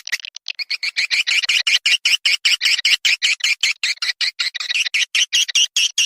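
Swiftlet calling recording: rapid, continuous twittering chirps, about ten a second, of the kind played as a lure call to draw swiftlets into a nesting house.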